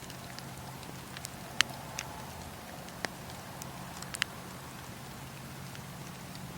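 Wood fire in a fireplace crackling over a steady low rumble, with a handful of sharp pops: the loudest about a second and a half in, and a quick cluster of them about four seconds in.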